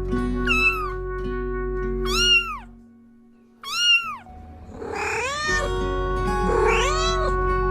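A cat meowing about five times, each meow rising and falling in pitch, over background music. The music drops out for about a second in the middle, between two of the loudest meows.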